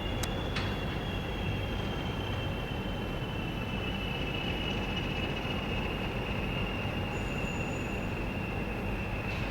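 Train wheels squealing on the rail: a steady high-pitched squeal that drifts slowly lower, over a continuous low rumble of the train moving, with two sharp clicks about half a second in.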